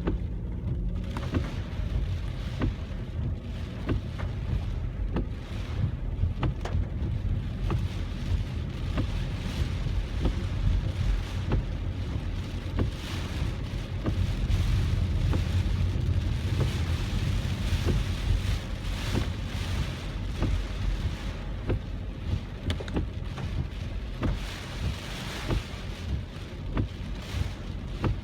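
Heavy typhoon rain on a moving car, heard from inside: a steady low rumble of the car and wet road, with rushing spray and many sharp ticks of raindrops hitting the body and windshield. The rushing grows louder for several seconds around the middle and again near the end.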